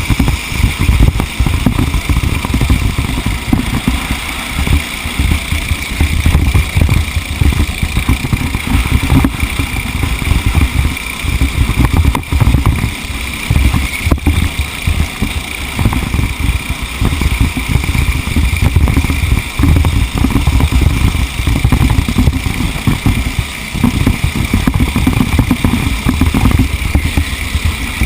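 A motor vehicle's engine running while under way, with a loud low rumble that rises and falls unevenly throughout.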